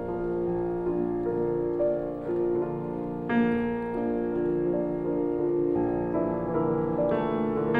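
Slow piano music, sustained notes changing about once a second.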